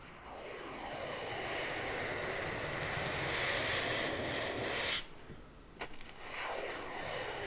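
Slow ASMR scratching on an object: a long, swishing rasp that builds for about five seconds and ends in one sharp click. After a brief pause with a couple of light clicks, the scratching starts again near the end.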